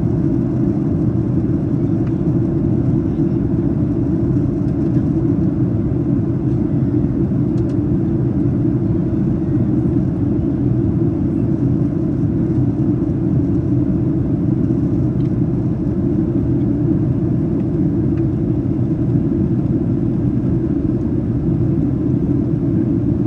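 Steady cabin noise of a Boeing 737-800 in flight, heard from a passenger seat: an even, low rushing of engine and airflow noise that holds at one level, during the descent.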